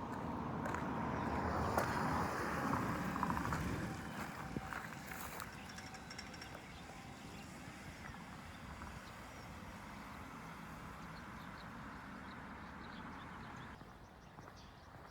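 Road traffic noise, with a vehicle passing in the first few seconds, then a steadier and quieter roar of traffic that drops near the end.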